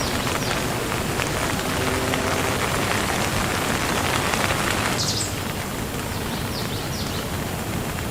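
Steady rain falling and pattering on surfaces, an even hiss that eases slightly about five seconds in.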